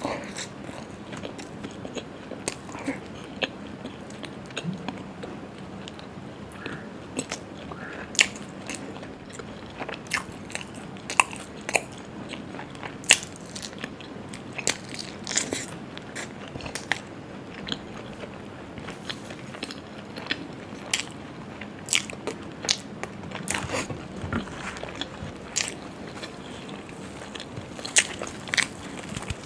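A person eating close to the microphone: chewing and biting, with many short, irregular crunchy and wet mouth clicks.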